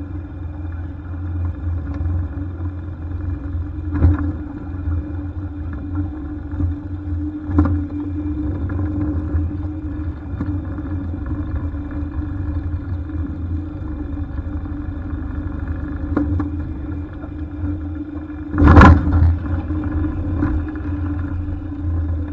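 Jet boat engine running steadily at low speed, with a few sharp knocks; the loudest and longest comes about three-quarters of the way through.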